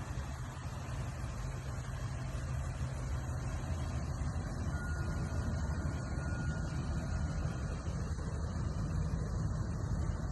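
A vehicle engine running steadily with a low rumble, most likely the utility truck's. A faint, high, steady tone sounds for about three seconds in the middle.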